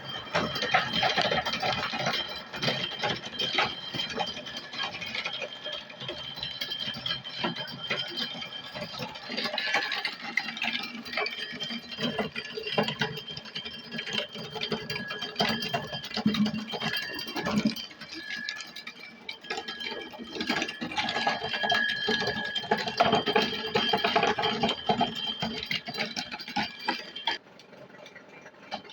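Homemade corn sheller driven by a washing machine spin-dryer motor, running and shelling corn: a dense, constant clatter of kernels and cobs over a steady motor whine. The clatter eases for a moment a little past the middle and drops off near the end.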